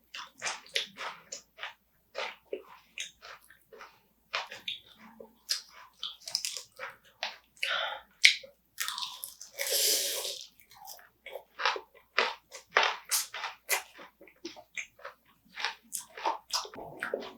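Close-up chewing and crunching of spicy marinated raw crab with green chili peppers: irregular wet crackles and bites. About ten seconds in there is a longer, louder rushing noise.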